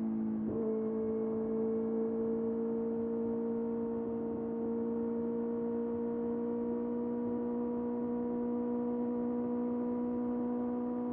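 Kawasaki ZX-6R's inline-four engine running at steady revs, a smooth held whine, after a brief dip in revs right at the start.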